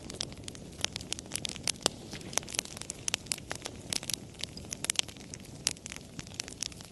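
Campfire crackling: frequent, irregular sharp pops and snaps over a steady low rush of burning wood.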